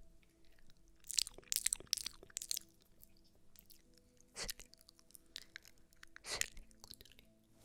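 Close-miked crisp crunching in short crackly bursts: a quick cluster about a second in, then single louder crunches near the middle and near the end.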